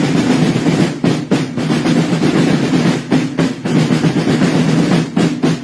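Marching drums of the Sartiglia drum corps playing a loud, continuous drum roll, with a few brief dips.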